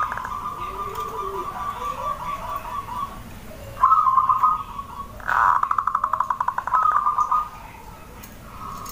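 Zebra dove (perkutut) cooing: several phrases of rapid trilled notes at a steady pitch, the loudest run coming about five seconds in.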